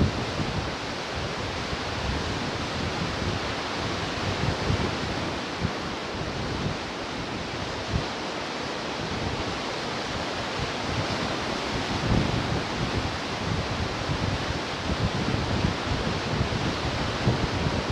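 Ocean surf washing steadily on the shore, a continuous hiss of breaking water with no distinct single wave. Irregular low rumbles of wind buffeting the microphone run underneath.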